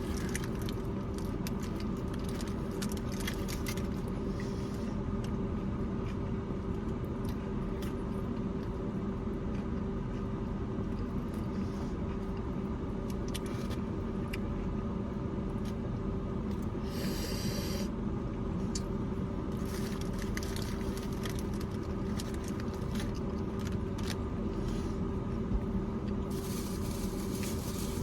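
Mouth-close eating sounds, chewing a burrito with small wet clicks, over a steady low mechanical hum. There is a brief rustle about two-thirds of the way through.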